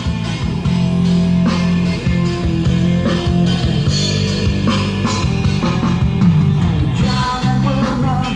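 Rock song with singing and guitar played back through Wharfedale 2190 loudspeakers driven by a PKK DA-2000 amplifier, with strong, steady bass notes.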